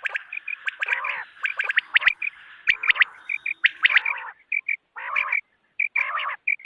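Recorded quail calls played as a hunting lure: quick, sharp, high notes repeated in rapid runs. Harsher, buzzier calls come in about one, four, five and six seconds in.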